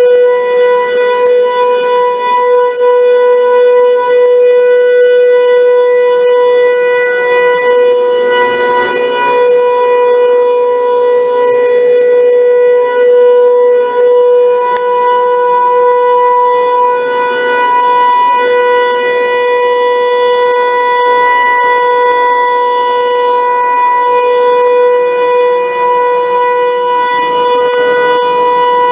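Outdoor warning siren sounding a loud, steady tone held at one pitch, with a slight waver in level.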